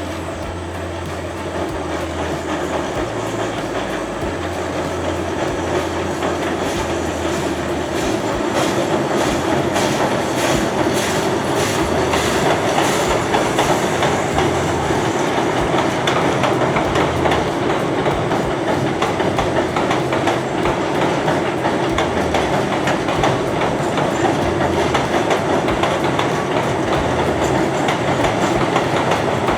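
Train running along the track, its wheels clicking rhythmically over the rail joints; it grows louder over the first several seconds and then holds steady.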